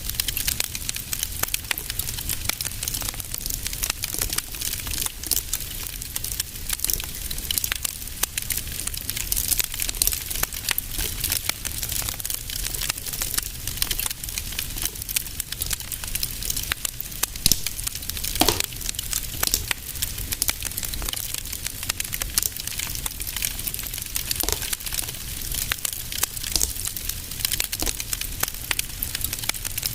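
Wood fire crackling in a fireplace: a steady stream of small pops and crackles over a low rumble, with a few louder pops.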